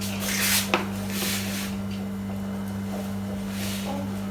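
Steady low hum at two pitches, with one faint click about three-quarters of a second in.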